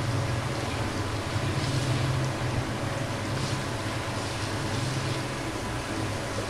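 Crushed onion, ginger and garlic sizzling steadily in hot oil in a non-stick wok, stirred with a wooden spatula, over a steady low hum. The aromatics are being lightly sautéed, short of browning.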